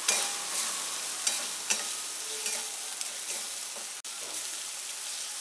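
Onion and spice masala sizzling in oil in a kadai while a spatula stirs and scrapes it against the pan: a steady frying hiss with repeated short scrapes, as the masala is sautéed down (kashano). The sound breaks off for an instant about four seconds in.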